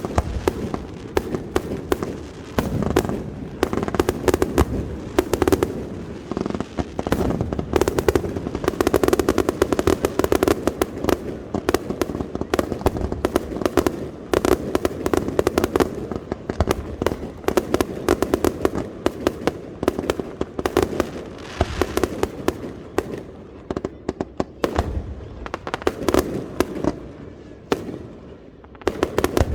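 Fireworks display: a rapid, continuous barrage of shell bursts and crackles, many per second, at its densest and loudest a third of the way in and thinning near the end.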